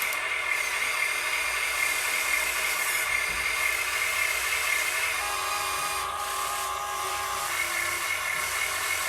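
Small electric motors and gearing of a radio-controlled construction model whining steadily, changing pitch about five seconds in as the load or throttle changes.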